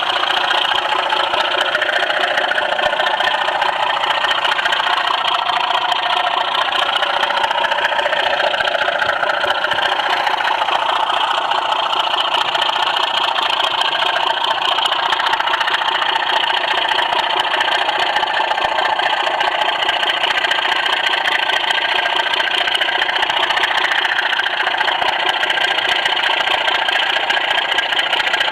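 Model railway train running on track, heard up close: a steady motor hum mixed with wheel-on-rail noise.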